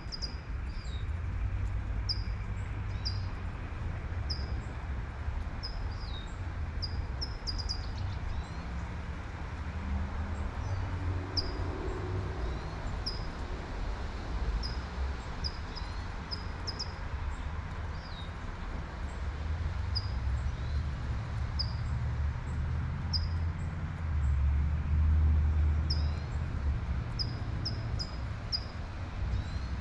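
Light rain falling, with a bird repeating a short high chirp roughly once a second. Under it runs the low rumble of road traffic, which swells in the second half as a car passes.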